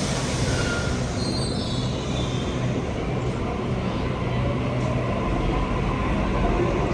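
Sydney Trains double-deck electric train moving through the station, with a brief high wheel squeal about a second in over steady running noise and a low hum, and a faint rising whine toward the end.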